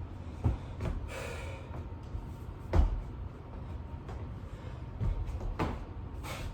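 Thuds of a person doing burpees on the floor, with hands and feet landing, the loudest about halfway through, and a heavy breath about a second in.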